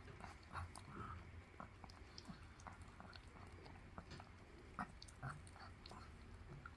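Puppy's mouth licking and chewing: faint wet smacks and small clicks scattered irregularly, as it works medicine around in its mouth.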